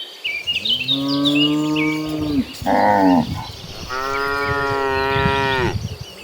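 Cattle mooing: three moos, two long and drawn out with one short, higher-pitched moo between them, over high chirping in the first second or so.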